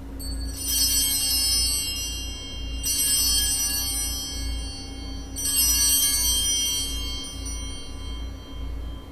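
Altar bells (sanctus bells) rung three times, each peal a cluster of high ringing tones that fades over a few seconds. The bells mark the elevation of the host at the consecration.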